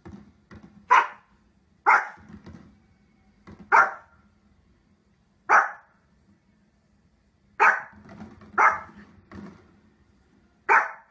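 A small fluffy spitz-type dog barking, seven loud, sharp single barks spaced irregularly one to two seconds apart.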